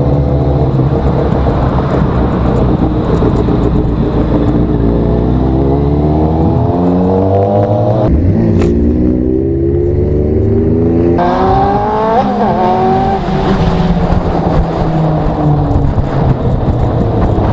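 Motorcycle engine running under way and accelerating, its pitch climbing through the revs twice with a break between.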